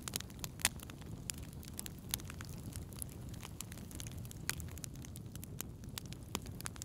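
Wood fire in a fireplace crackling, with irregular sharp pops and snaps over a steady low rumble of the flames. The loudest pop comes less than a second in.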